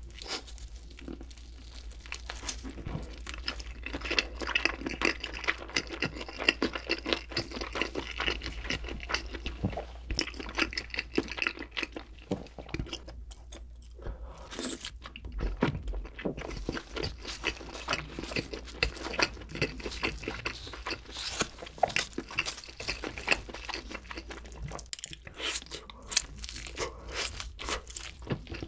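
Close-miked eating of cheesy pizza: wet chewing and crunching, with irregular crackling bites. There is a brief pause partway through, and a bite into a fresh slice and its thick bread crust near the end.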